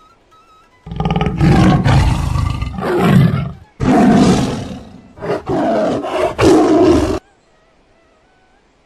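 A big cat roaring and growling in three or four long, loud bouts over about six seconds, then breaking off suddenly.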